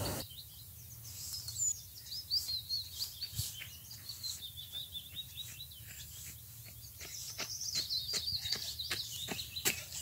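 Small birds chirping: quick runs of short, high calls, busier in the last few seconds, with faint ticks in between.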